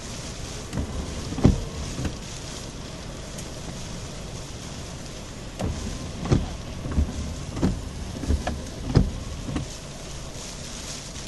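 Hurricane wind rushing steadily, with a series of low thumps from gusts, a few early on and a closer run between about six and ten seconds in.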